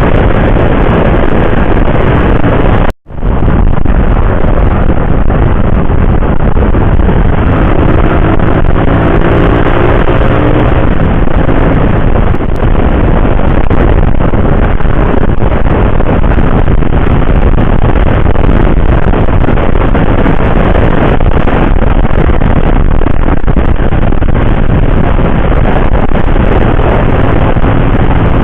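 Motorcycle ride on an open highway heard from the rider's microphone: loud, steady wind and road noise with the hum of the engine underneath. The sound cuts out for an instant about three seconds in.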